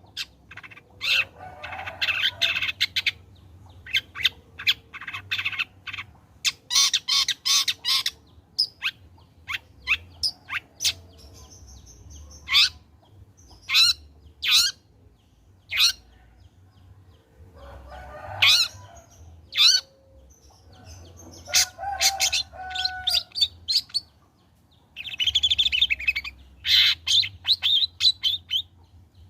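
Long-tailed shrike singing in full voice: rapid groups of sharp, quickly falling notes mixed with harsh, scratchy chattering phrases, in bursts broken by short pauses.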